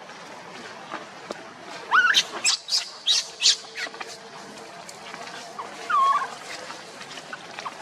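Monkey squealing: a quick burst of short, high, squeaky calls about two seconds in, then a single curving call about six seconds in.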